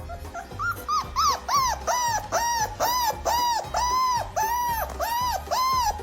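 A dog giving a rapid run of high, whining yips, about two or three a second, each call rising then falling in pitch, with background music and a steady low beat under it.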